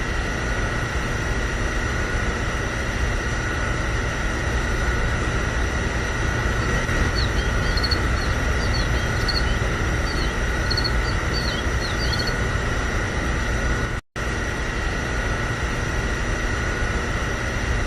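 A small motor running steadily with a constant high whine. Short high chirps come and go about halfway through.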